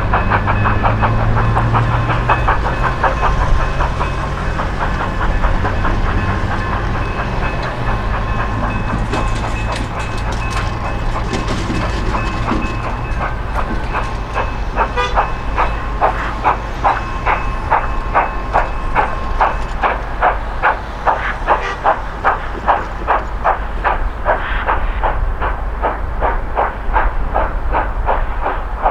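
Georgia Northern Railway 2-8-2 steam locomotive No. 105 running, with a steady rhythmic beat of about two strokes a second over continuous hiss. The beat grows sharper in the second half.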